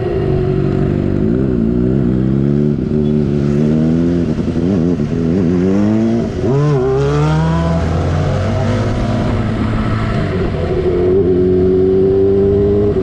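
Motorcycle engine accelerating hard at full throttle, its pitch climbing and then dropping sharply several times as it shifts up through the gears, over steady wind and road noise.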